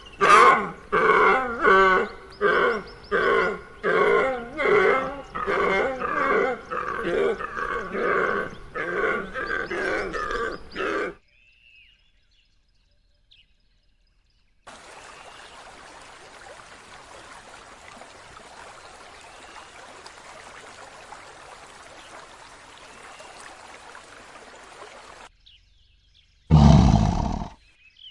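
A deer calling over and over, about one and a half calls a second, getting gradually quieter over about eleven seconds. After a short pause comes a steady hiss of pond water, and near the end one short, loud, deep call from a lioness.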